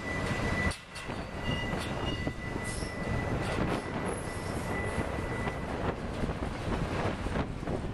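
Freight train of autorack cars rolling through a curve: wheels and couplers clatter and clank over the rails, with a steady high flange squeal that fades out about six seconds in. Wind buffets the microphone under it.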